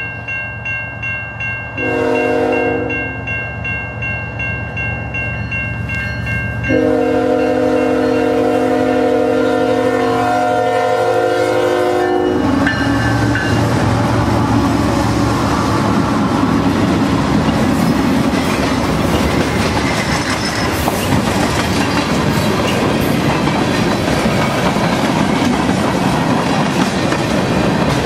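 A diesel freight locomotive horn sounds a short blast about two seconds in and a long blast from about seven to twelve seconds, over the steady ringing of a grade-crossing bell. Then the GE ES44AC and C44-9W diesel locomotives pass, and a long train of freight cars rolls by with the clickety-clack of wheels on the rails.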